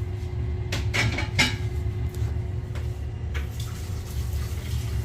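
Hot tap left running during a test of an Ideal ISA combi boiler, heard as a steady low hum of running water and a working boiler. A few sharp clinks come about a second in.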